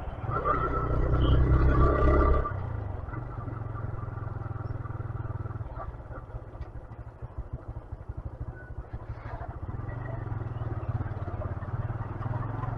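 A 125cc motorcycle engine running under way. It is louder for the first couple of seconds, then drops to a quieter, steady run.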